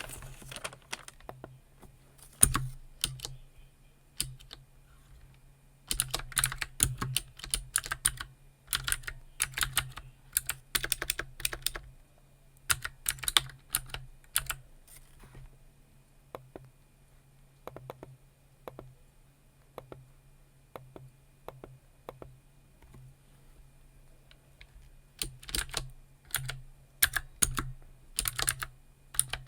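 Typing on a computer keyboard in quick runs of keystrokes, broken by stretches of scattered single clicks. The busiest typing comes from about six to fifteen seconds in and again near the end.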